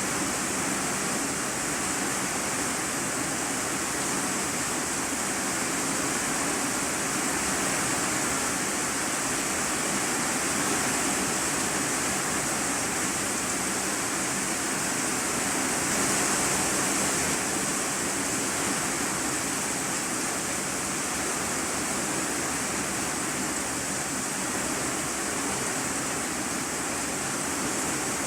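Heavy rain drumming on a corrugated iron-sheet roof, heard from the room underneath as a dense, steady hiss with no individual drops standing out.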